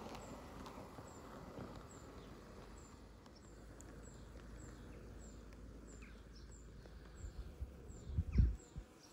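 Small birds chirping again and again over a low outdoor rumble, with a few louder low thumps near the end.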